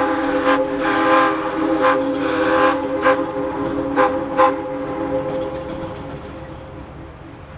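A long blast on a steam locomotive's multi-chime whistle, a chord of several steady tones that fades away near the end, with a few sharp exhaust chuffs from the engine over it.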